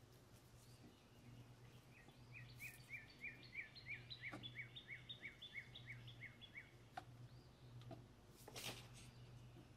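Faint songbird song: a quick run of repeated chirps, about four a second, lasting about five seconds. A few faint clicks and a short scrape near the end sound over a low steady hum.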